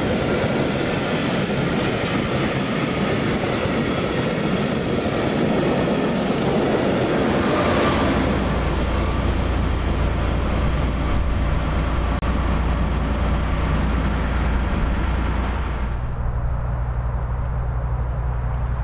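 Heritage passenger train passing close by, its carriage wheels clattering over the rail joints. About eight seconds in, a steady low drone takes over as the diesel locomotive at the tail of the train passes and moves away.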